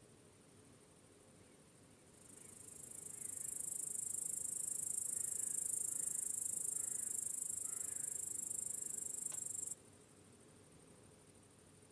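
High-pitched chorus of chirping crickets that swells in over a couple of seconds, holds steady, then cuts off abruptly about two seconds before the end. Faint bird chirps sound underneath.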